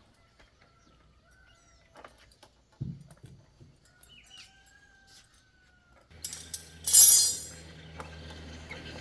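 Faint scattered clicks and thin chirps, with a single thud about three seconds in; about six seconds in a machine starts up with a steady low hum, and a second later a loud burst of hissing rises and fades.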